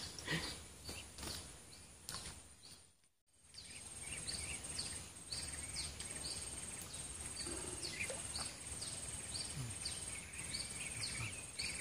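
Swamp-forest background: a bird repeats short falling call notes roughly every half second over a steady, high, evenly pulsing insect trill. A few faint clicks of tackle handling come in the first couple of seconds.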